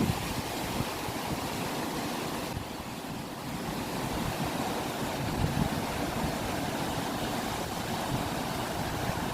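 Ocean surf washing steadily with no break, easing slightly about three seconds in, with wind buffeting the microphone.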